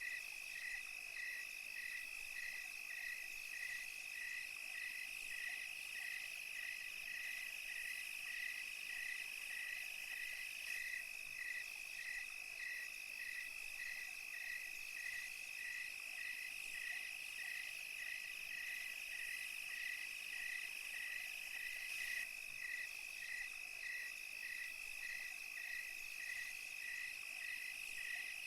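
Night insect chorus of crickets: a steady high trill with a separate chirp repeating about twice a second, and fainter higher-pitched insect buzzing behind.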